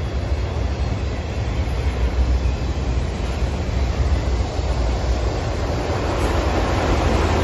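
Freight train of autorack cars rolling past: a steady rumble of steel wheels on the rails, growing louder over the last couple of seconds.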